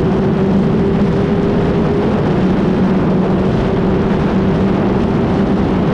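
2007 Suzuki GSX-R1000's inline-four running through a Yoshimura exhaust with the dB killer removed, holding a steady engine speed. A broad rush of noise sits over the engine note throughout.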